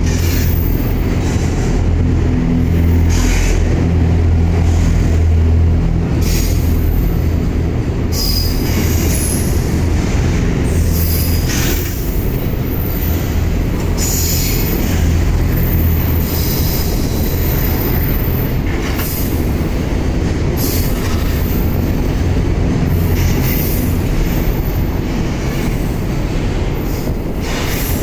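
A long freight train passes close by with a steady, loud rumble from its wagons. Wheels knock irregularly over the rail joints, and a high wheel squeal comes and goes.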